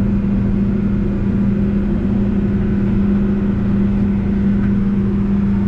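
Backhoe engine running steadily, a constant even drone with no change in pitch.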